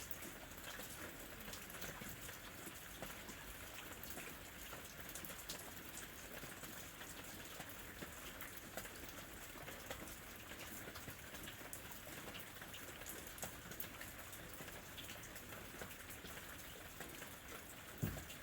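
Steady rain falling, with many separate drops ticking through a continuous hiss; a single low thump near the end.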